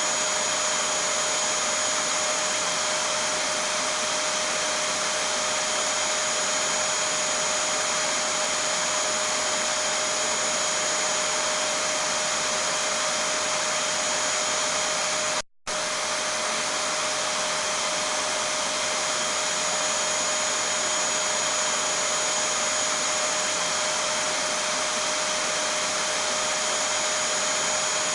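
Vacuum cleaner running steadily: an even rushing noise with a constant hum and a thin high whine. The sound cuts out for a split second about halfway through, then resumes unchanged.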